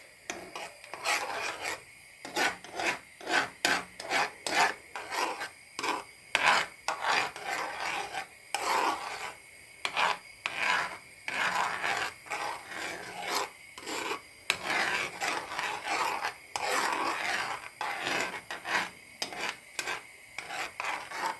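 A utensil scraping and stirring strawberry puree in a frying pan, in repeated rasping strokes about twice a second as the puree cooks down.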